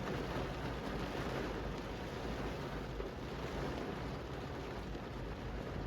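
Steady rain falling on a city street: an even hiss with a low rumble underneath.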